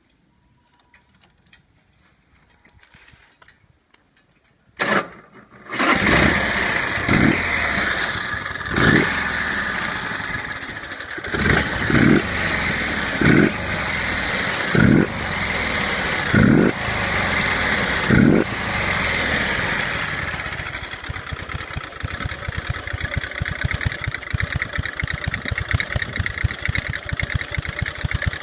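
Motorcycle V-twin, an S&S Evolution-style engine with a Mikuni HSR carburettor, starting about five seconds in after a brief crank. It is then revved in a string of sharp throttle blips, about nine of them, before settling into an even, pulsing idle from about 20 seconds in.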